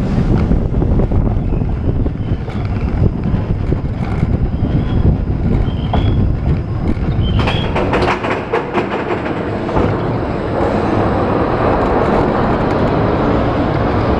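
Seven Dwarfs Mine Train roller coaster car rolling along its track, heard from a rider's seat: a steady rumble of wheels on rail, with a run of clattering clicks about seven seconds in.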